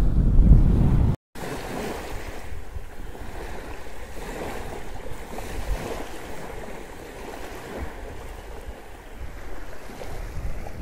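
Wind buffeting the microphone over sea surf, loud and low for about the first second; after a brief cut, quieter wind and waves.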